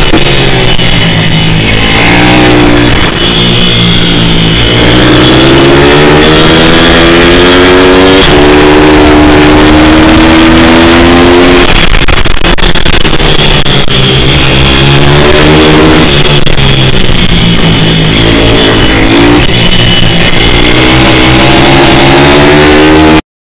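Pit bike's single-cylinder four-stroke engine revving hard, very loud, its pitch climbing through the gears and falling off on the throttle again and again. The sound cuts to silence just before the end.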